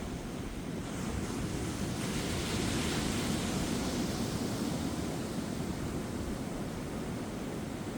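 Ocean waves breaking and washing up the beach, a steady rush of surf that swells to a louder wash about three seconds in and then slowly fades, with some wind on the microphone.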